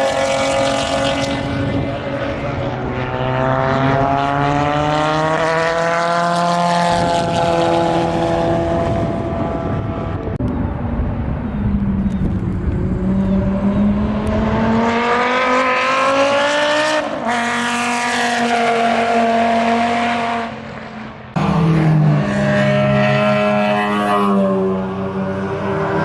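Race car engines on a road course, loud and rising in pitch as cars accelerate past one after another. About three-quarters through the sound drops briefly, then comes back suddenly.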